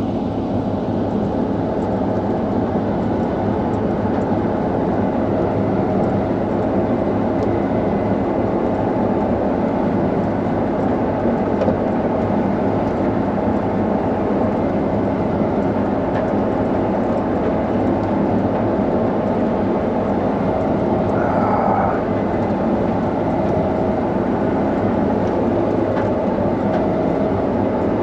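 Combine harvester running steadily while cutting, a constant mechanical drone heard from inside the cab. A brief higher-pitched sound cuts in over it about three quarters of the way through.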